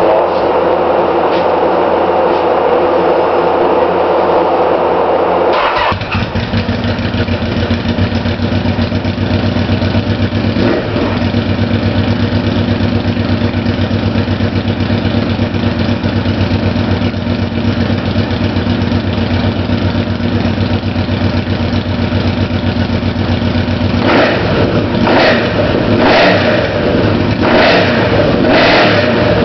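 1986 Yamaha V-Max V4 engine running through a Kerker 4-into-2 exhaust with no baffle packing. The sound changes abruptly about six seconds in as the engine catches and settles into a steady idle. Near the end come several quick throttle blips.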